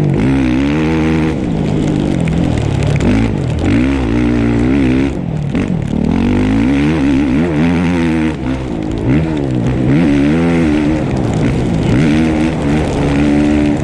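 Dirt bike engine being ridden hard, revving up and dropping back again and again, its pitch rising and falling every second or two with the throttle and gear changes.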